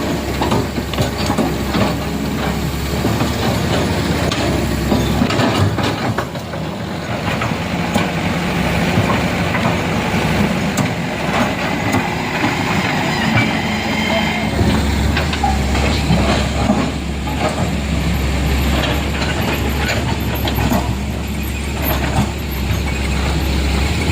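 Heavy vehicle engine running with a steady low rumble, which gets louder about fifteen seconds in.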